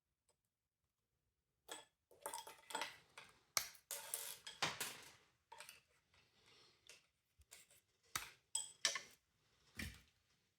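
Hard plastic and small metal parts of a window vacuum cleaner being handled during disassembly: a string of sharp clicks, knocks and short scrapes starting about two seconds in.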